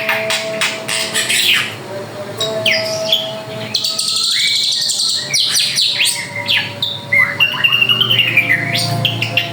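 Drongo (srigunting) singing lively and without pause: a fast, varied run of sweeping chirps and whistles, with a few held whistled notes.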